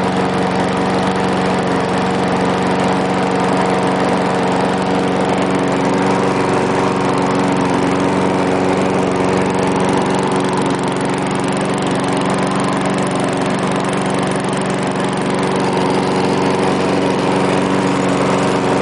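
1995 Briggs & Stratton 3.5 HP single-cylinder four-stroke push-mower engine running steadily at a constant speed, warmed up after a cold start.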